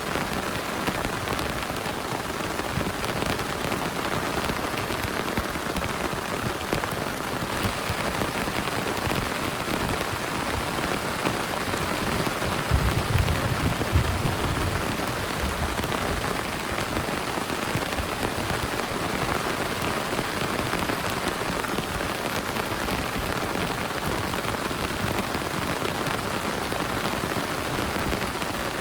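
Heavy rain falling and pattering steadily, with a brief low rumble about halfway through.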